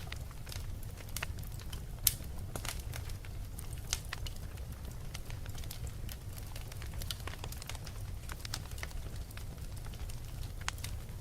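Fire crackling: irregular sharp pops and snaps over a steady low rumble, the loudest pop about two seconds in.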